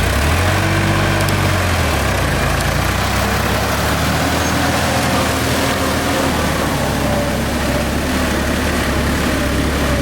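Mahindra Arjun Novo 605 DI 4WD tractor's diesel engine pulling a trolley through mud. It revs up just after the start, holds for about two seconds, drops back, then runs steadily.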